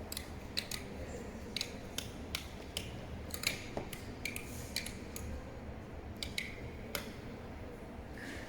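Irregular short, sharp mechanical clicks, roughly one or two a second, over a steady low hum.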